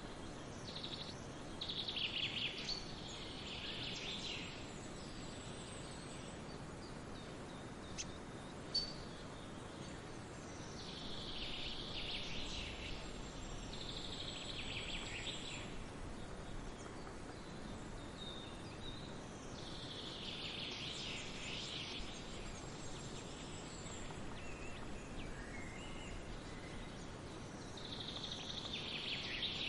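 Forest songbirds singing in bursts of chirpy, trilled phrases every few seconds over a steady background hiss of the forest ambience. A sharp click or two stands out about eight to nine seconds in.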